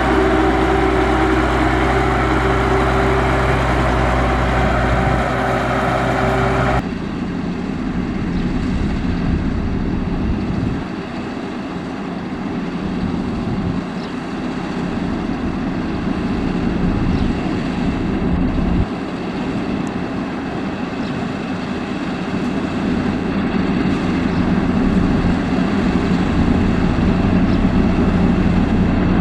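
Engine of heavy road-construction machinery running steadily. About seven seconds in the sound changes abruptly to a lower, rougher engine note.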